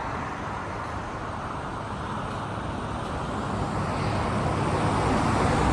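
Road traffic noise, a steady rushing hum that grows louder in the second half as a vehicle approaches.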